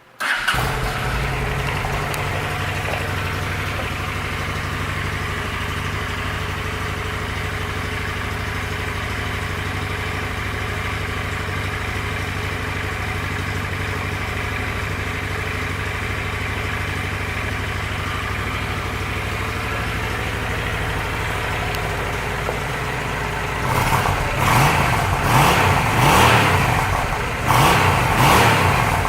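Honda Shadow Aero 750's V-twin engine starting up and idling steadily, then revved in a few quick blips of the throttle near the end.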